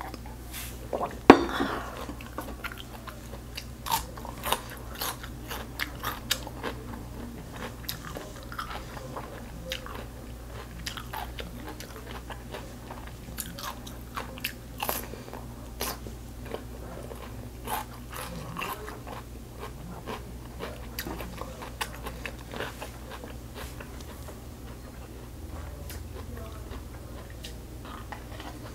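Close-miked eating sounds: a woman chewing and crunching, with many short wet mouth clicks, including bites of a fresh cucumber slice. A single loud sharp knock about a second in.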